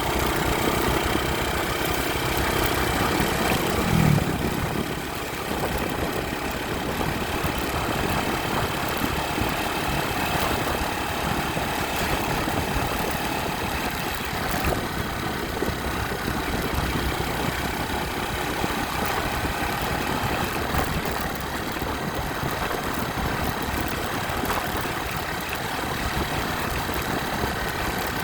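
Motorcycle engine running steadily under a constant rushing noise, with one short rise in pitch about four seconds in.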